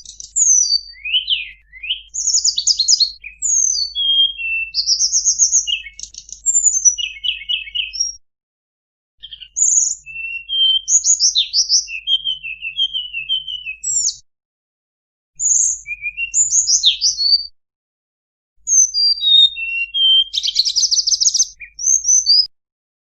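Tledekan gunung singing a varied song of quick high whistles, trills and buzzy rattles. It comes in long phrases broken by short pauses and stops shortly before the end.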